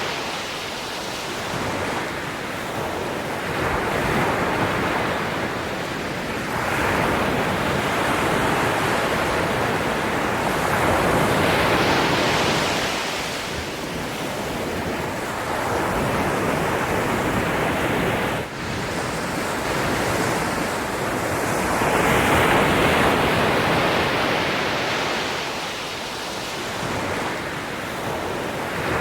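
Ocean waves breaking and washing up a shore, swelling and falling back every few seconds.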